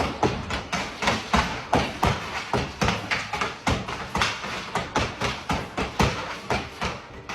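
Hockey stick blade and puck on Glice synthetic ice: a quick, steady run of taps, about two to three a second, as the puck is stickhandled back and forth.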